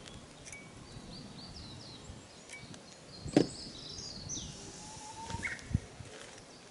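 Birds chirping, with short calls through the middle and one falling call. A sharp knock sounds about three and a half seconds in, and a short low thud near the end.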